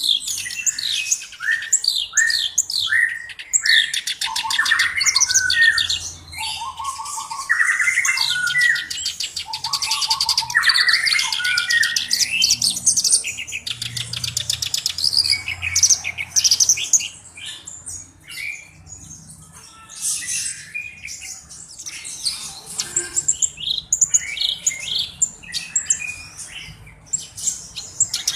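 Black-browed reed warbler (kerak basi alis hitam) singing actively: a long, continuous run of varied chattering phrases with rapid trills and harsh, scratchy notes, barely pausing.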